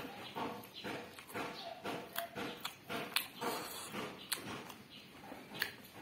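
Close-miked chewing and mouth smacking, about two chews a second, with sharp clicks now and then.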